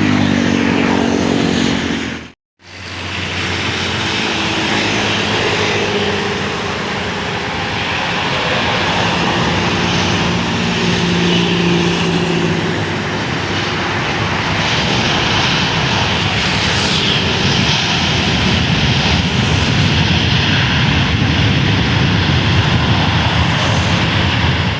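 Airliner engines running loud and steady: a rushing noise with several droning tones over it. The sound cuts out abruptly for a moment about two and a half seconds in, then comes back.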